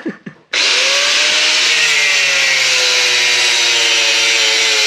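Electric power tool starting abruptly about half a second in and running steadily at high speed, cutting through a car's wiring harness.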